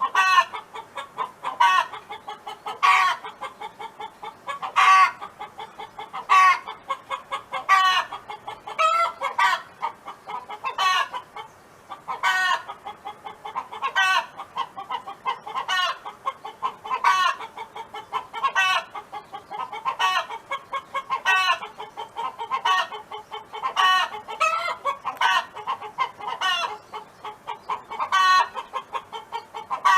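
Domestic hen clucking over and over, short calls at about one to two a second with louder ones standing out every second or two.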